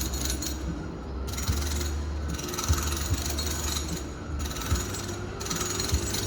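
Home renovation work heard from a distant room: a power tool runs in spells that start and stop every second or so, over a steady low machine hum, with a few sharp knocks.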